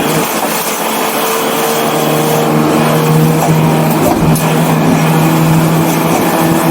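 1984 BMW 318i's four-cylinder engine running at steady revs under way, heard from on board with road and wind noise. Its pitch dips briefly about four seconds in.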